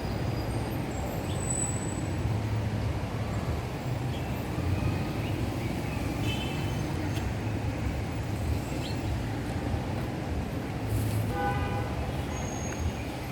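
Steady low outdoor rumble, like distant traffic, with a few faint short chirps in the middle and near the end.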